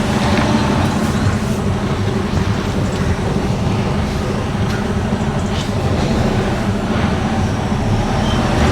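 Lorry's diesel engine running steadily with a constant low drone as the truck creeps through a tight spot.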